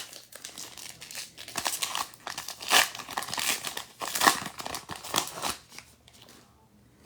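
Foil trading card pack wrapper crinkling and tearing as it is ripped open and handled, in a run of rustling bursts that stop about five and a half seconds in.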